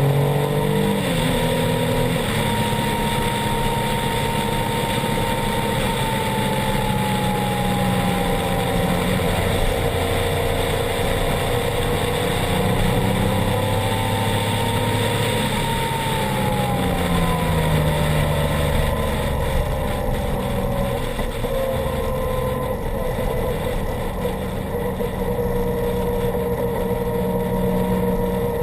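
Triumph Explorer 1200 XCA's three-cylinder engine running through an Arrow exhaust while the bike is ridden, its pitch drifting gently up and down with the throttle, with a quick change in pitch about a second in.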